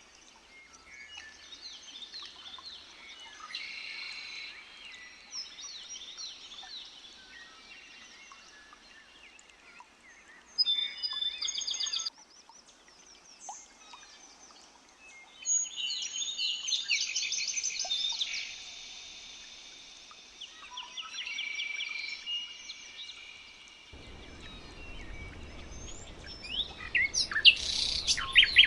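Several wild songbirds singing and chirping at once, with overlapping trills, whistles and short calls. A loud burst of song comes around ten seconds in. A low rumble sets in about four seconds before the end, and a fast run of repeated notes follows near the end.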